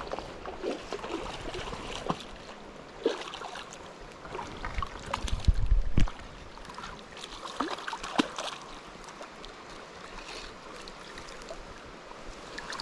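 River water running steadily, broken by scattered small splashes and clicks, with a few louder knocks and thumps about five and six seconds in, as a hooked trout is played and brought in.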